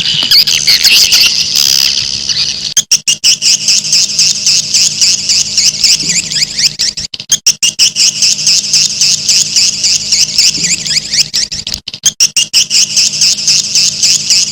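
Edible-nest swiftlet call recording used as a lure sound for swiftlet houses: a dense, rapid twittering of many swiftlets with brief breaks about three, seven and twelve seconds in. A faint steady low hum runs underneath.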